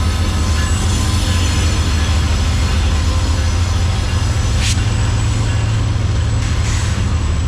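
Freight train cars rolling past with a steady low rumble and faint high wheel-squeal tones, with one sharp click about halfway through.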